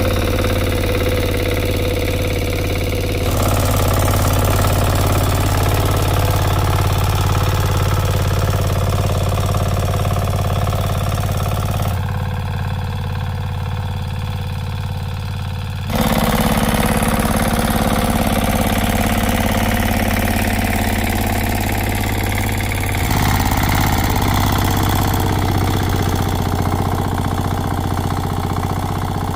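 An engine running steadily, its sound changing abruptly several times.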